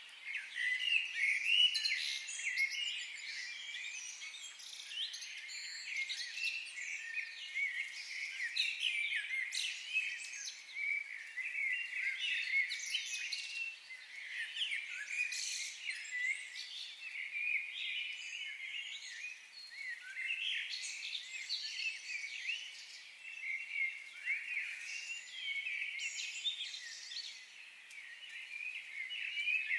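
A chorus of several songbirds singing at once: overlapping quick chirps and whistled notes that run on without a pause.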